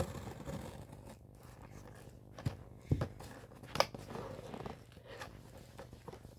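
Cardboard blind-box packaging being handled and torn open: irregular rustling and tearing, with a few sharp clicks about midway.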